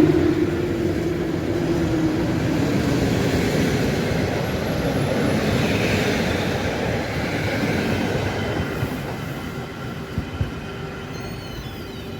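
A passenger train hauled by an EP07 electric locomotive running through the station. The rumble of its wheels on the rails fades steadily as it moves away, with a few sharp clicks near the end.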